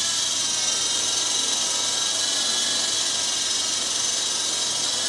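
MJX 645 four-channel fixed-pitch RC helicopter hovering: its electric motors and spinning rotors give a steady high-pitched whine with several fine, even tones.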